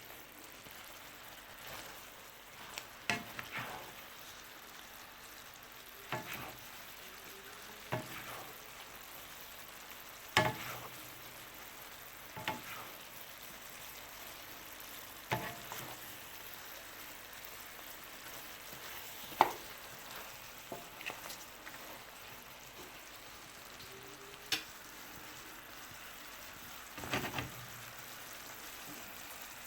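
Chicken simmering in a honey and soy sauce glaze in a pan, sizzling steadily, with a utensil knocking against the pan every few seconds as the chicken is coated in the sauce.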